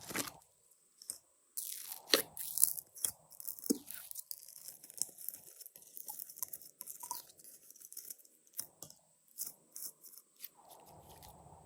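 Hands kneading and stretching glossy slime, with a run of sticky clicks, pops and crackles.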